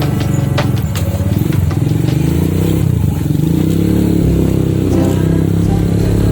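Motorcycle engine running while riding, its pitch shifting a little, with a few sharp clicks in the first second or so.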